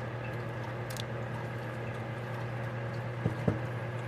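Two quick sharp knocks, a tool or part tapping against the carburetor as a stuck old gasket is pried off, over a steady low hum.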